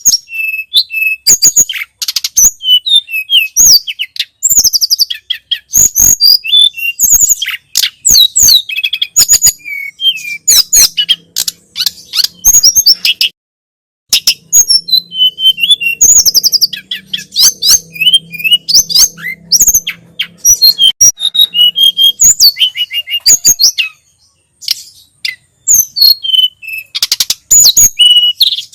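Tledekan gunung (sulingan gunung) singing: a fast, continuous run of sharp high chirps and sliding whistles in quick phrases, broken by two brief pauses. A faint low hum lies under the middle of the song.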